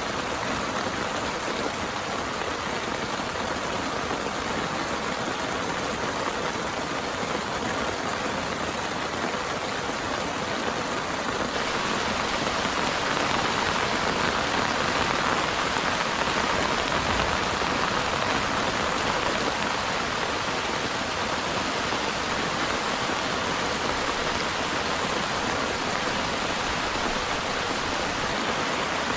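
Heavy rain pouring steadily, an even hiss, growing a little louder about twelve seconds in.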